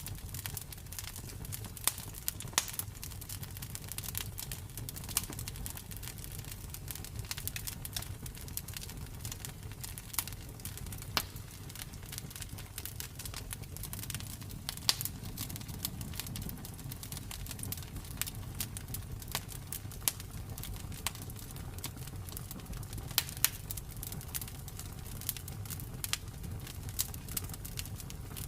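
Campfire burning: wood crackling and snapping in irregular sharp pops, a few louder than the rest, over a steady low rumble of the flames.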